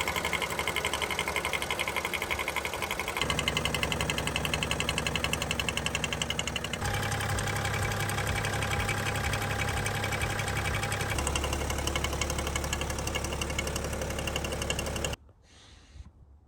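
BMW M57 straight-six diesel engines idling, each with the fast, even knocking of the engine-driven vacuum pump, a normal trait of this engine and not a fault inside it. The sound changes abruptly three times as one car gives way to the next, and stops about 15 seconds in.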